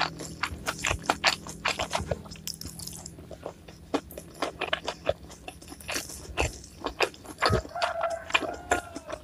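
Close-miked chewing and biting of crunchy raw vegetables: a fast, irregular run of crisp crunches, several a second.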